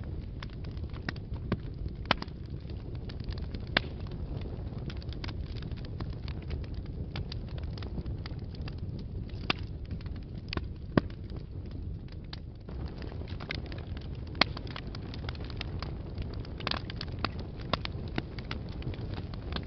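Wood fire burning in a fireplace: a steady low rumble of flames with frequent small crackles and pops, and a handful of louder sharp snaps scattered through.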